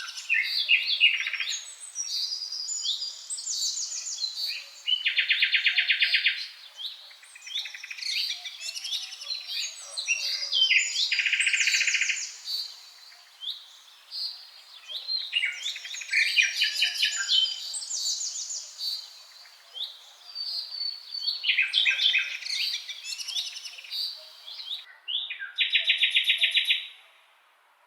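Songbirds singing: a run of varied chirping, whistled phrases, broken three times by a loud rapid trill lasting a second or two.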